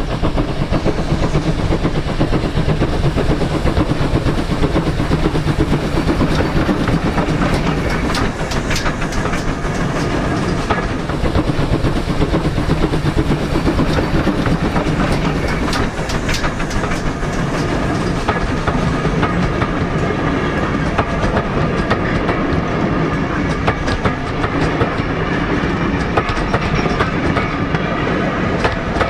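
Steam train double-headed by two pannier tank locomotives running along the line, its wheels clicking steadily over the rail joints.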